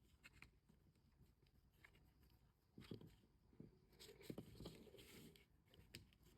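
Near silence, with a few faint rustles and light taps about halfway through from linen thread and cardstock being handled while a bow is tied.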